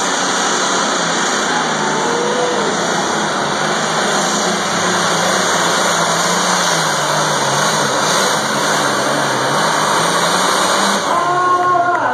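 Engine of a competition pulling vehicle running at full power during a pull with the clutch locked in, loud and steady, its pitch wavering slightly as it works against the load.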